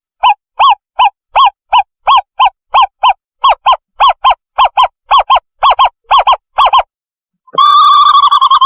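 Recorded owl call played as a lure: a series of short, clear notes, each one the same, repeated faster and faster. After a pause about seven seconds in, a continuous bubbling trill starts.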